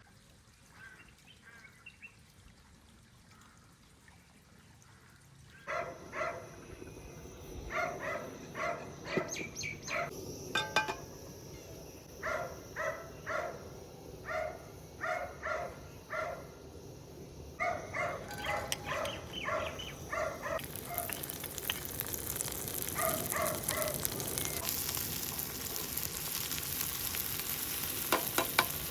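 A bird calling over and over in short, pitched calls, in runs of several. From about two-thirds of the way in, the steady sizzle of food frying in a pan rises underneath.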